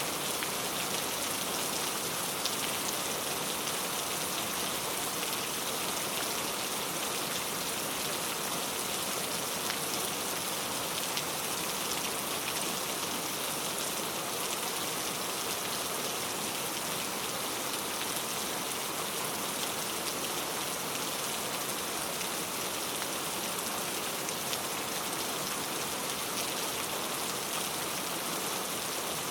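Steady rain falling, a dense even patter of drops with tiny scattered ticks, unchanging throughout.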